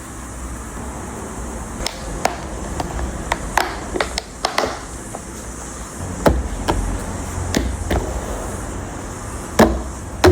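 A dozen or so irregular light clicks and knocks, as of things being handled and set down, over a steady low hum; the loudest knocks come about six seconds in and near the end.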